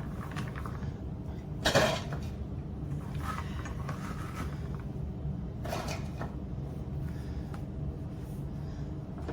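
A few separate clunks and knocks of kitchen items being handled, the loudest about two seconds in and another near six seconds, over a steady low hum.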